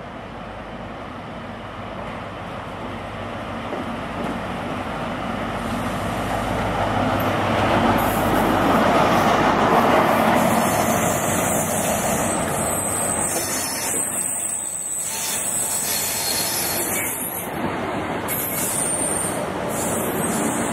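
HST diesel power car approaching and passing close, the engine and wheel noise building to a peak about eight to ten seconds in. The coaches then roll past with wheel noise and a high, steady wheel squeal.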